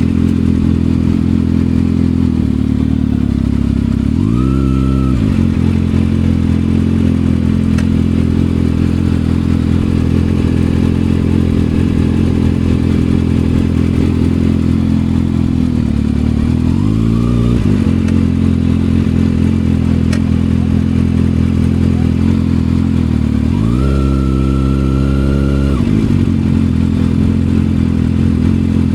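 Kawasaki ZX-6R's inline-four engine idling through an M4 aftermarket exhaust, with three throttle blips: a quick one about four seconds in, another a little past halfway, and a longer rev held for about two seconds near the end.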